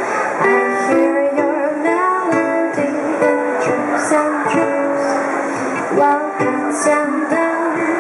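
A ukulele strummed in a steady rhythm with a solo voice singing over it, in a live acoustic folk song.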